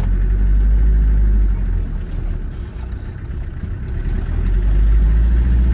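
Car engine idling, a low rumble heard from inside the car. It grows louder about four seconds in as another car drives slowly past alongside.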